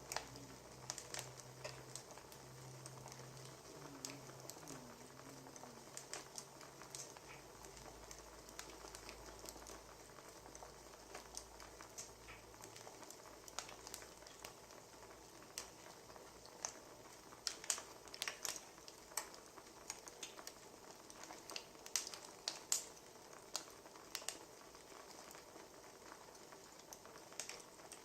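Wood fire crackling, with irregular sharp pops over a soft steady hiss, the pops coming thickest past the middle.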